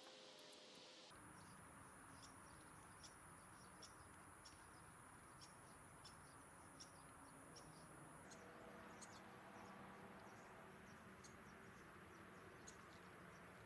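Faint outdoor insect ambience: a steady high-pitched insect drone with regular short chirps about twice a second, over a low hiss. The drone steps up in pitch about two thirds of the way through.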